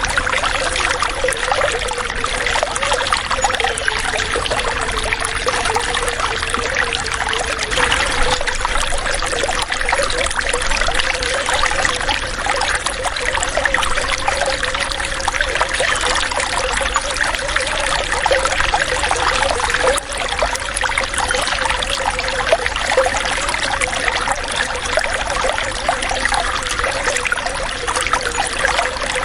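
Water running and trickling steadily, a continuous splashing rush without pause.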